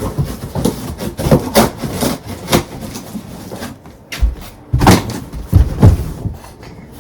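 Irregular knocks, thumps and scraping as a large cardboard box is worked open, with a few louder thumps about five to six seconds in.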